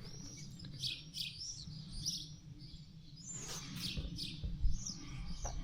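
Small birds chirping and calling: many short, quick chirps in a scattered run, over a steady low rumble.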